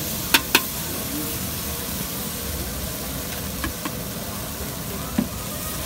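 Chalupas frying in oil on a large metal comal, a steady sizzling hiss. A metal spatula clacks sharply against the pan twice just after the start, with a few lighter knocks later.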